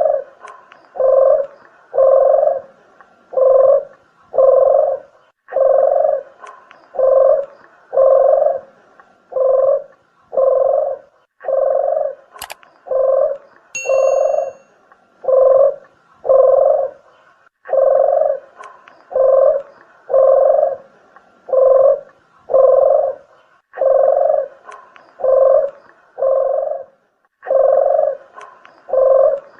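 Dove cooing, as used for a deruk or puter geni lure call: a steady series of low coos, about one a second, broken by short pauses every few seconds. A sharp click and a brief high ringing tone come near the middle.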